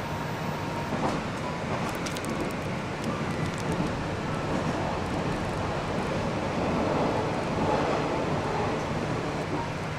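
Steady running noise of a diesel railcar heard inside the passenger car: a low hum and rumble, with a few faint clicks between about one and four seconds in.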